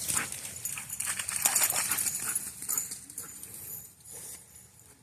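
Dogs playing in shallow floodwater: splashing, with dog sounds mixed in. It is busiest for the first three seconds or so, then quieter.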